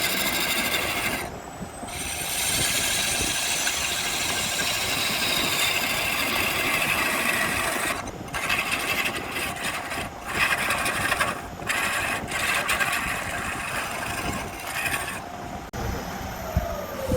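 Wood spinning on a lathe with a turning tool scraping against it in long continuous passes. The sound breaks off briefly a few times where the tool lifts from the wood, and near the end a tone falls in pitch.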